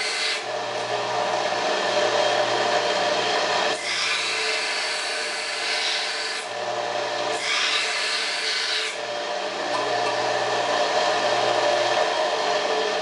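Belt grinder running with a steel screwdriver shaft held against the belt, grinding flat faces onto it to form a square birdcage-awl point. The grinding noise shifts every few seconds as the piece is repositioned on the belt.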